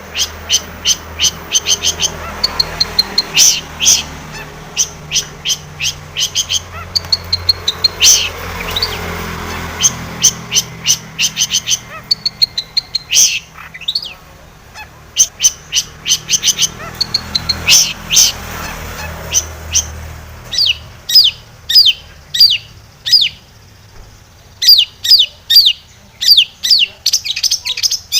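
Long-tailed shrike (cendet) singing loudly in rapid runs of sharp, chattering notes, broken by short pauses. From about two-thirds of the way in, the notes come more spaced out, a few each second.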